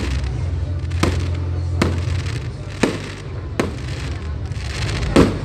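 Aerial fireworks shells bursting, about six sharp bangs roughly a second apart, the loudest near the end, over a steady low hum.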